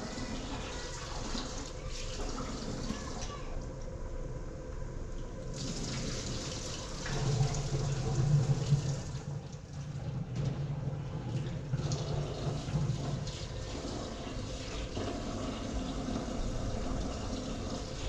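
Water running and splashing steadily, with a louder, fuller stretch in the middle.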